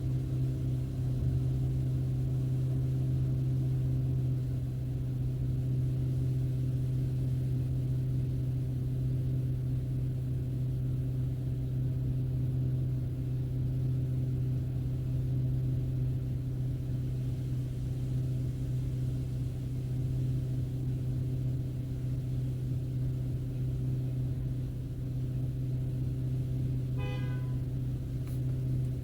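Car driving at a steady pace: a continuous low hum of engine and road noise.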